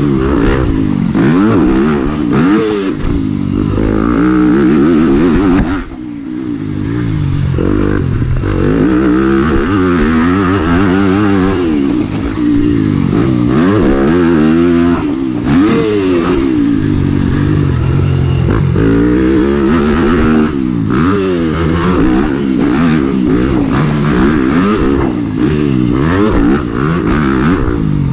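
Yamaha YZ250F four-stroke single-cylinder motocross bike being ridden hard, its engine pitch climbing and falling again and again with throttle and gear changes. There is a short drop in level about six seconds in.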